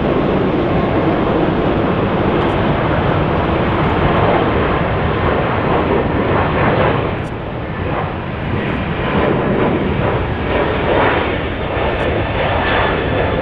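Airbus A321neo jet airliner going by, its engines a loud, steady rushing roar with a faint steady whine in it, easing briefly a little past the middle.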